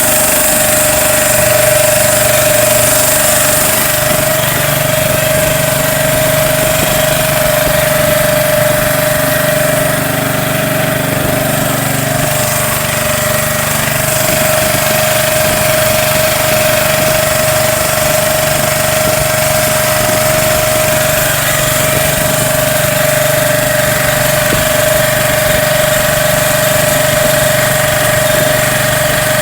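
Small boat engine running steadily at a constant speed, with one strong unchanging tone over its hum.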